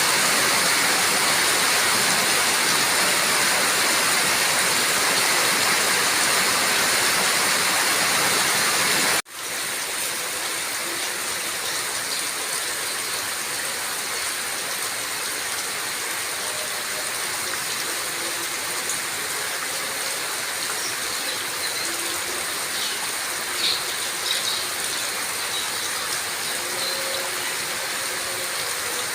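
Steady rain noise. About nine seconds in it cuts off abruptly and continues as a quieter, thinner rain sound, with a couple of faint short sounds about two-thirds of the way through.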